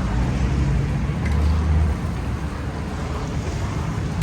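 A steady motor hum under a constant even hiss.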